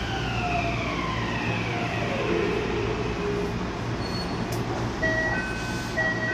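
Train running with a steady low rumble and a whine that falls steadily in pitch over the first few seconds, as the train slows. Near the end a short two-note electronic chime sounds twice.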